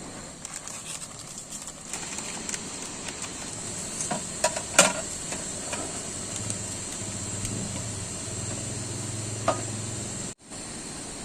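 Camp cooking: a steady sizzle with scattered clicks and knocks of a utensil against a pan, one sharp knock about five seconds in. A low hum joins in the second half, and the sound drops out for a moment near the end.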